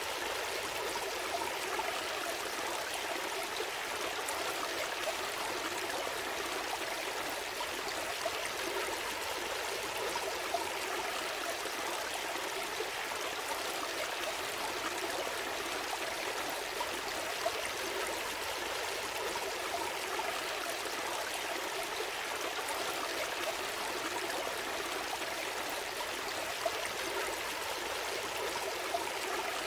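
A gentle stream flowing: steady burbling water with occasional small splashes.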